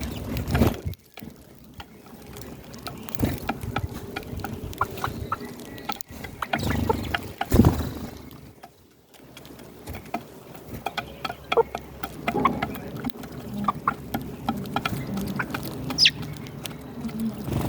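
Hens clucking softly amid many small ticks and rustles.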